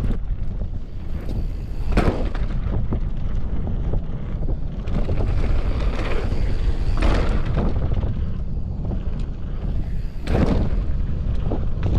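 Wind rushing over the camera microphone during a fast downhill mountain-bike run, with a constant low rumble of tyres and bike on the trail and small rattles. Three louder surges come about 2, 7 and 10 seconds in.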